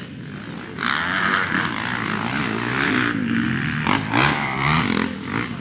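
250 cc motocross bike engines racing past, revving up and down through the gears; the engine noise gets much louder about a second in and stays loud.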